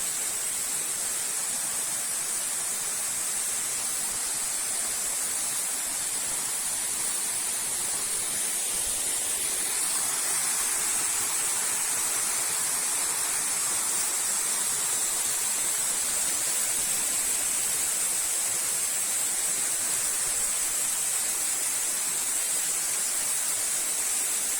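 Small waterfall splashing at close range: a steady rush of falling water with a constant high hiss over it. The rush grows a little fuller about ten seconds in.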